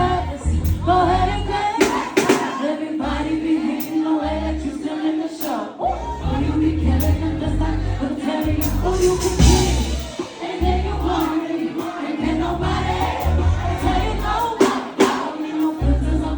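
Live pop concert music heard from the audience: amplified singing over heavy bass pulses, with crowd noise.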